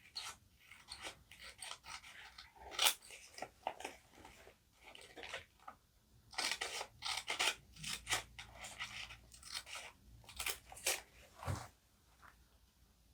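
Paper being handled for journaling: a run of short crinkling and rustling sounds, thickest in the second half, with a soft knock near the end.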